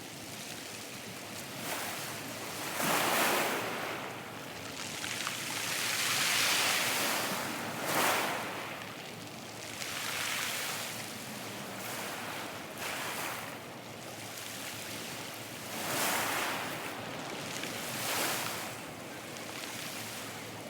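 Wind buffeting the microphone over rushing water during a boat crossing, a steady hiss that swells and eases every few seconds, with stronger gusts about 3, 8 and 16 seconds in.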